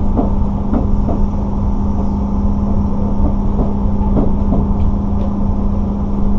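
Running noise heard inside a Sotetsu 9000 series train moving slowly over the tracks: a steady low rumble with a constant hum and a few light clicks from the wheels.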